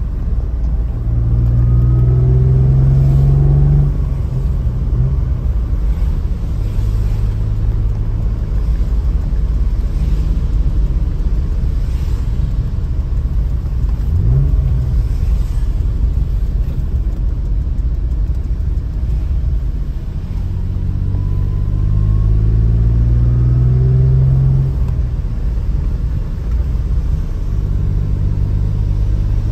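Alfa Romeo GTV6's V6 engine heard from inside the cabin while driving: it pulls up in revs near the start and again about two-thirds of the way through, each time dropping sharply at a gear change, with steady cruising between.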